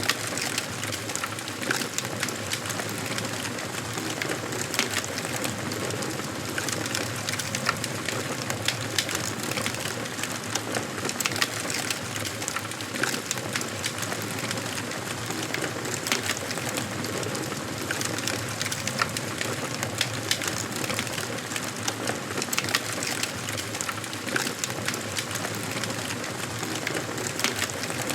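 Wood fire burning in a fireplace, crackling and popping continuously over a steady hiss of flames.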